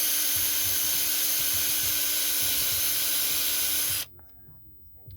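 Electric boat polisher spinning its pad at speed with a steady hiss and a faint motor hum, then switched off suddenly about four seconds in.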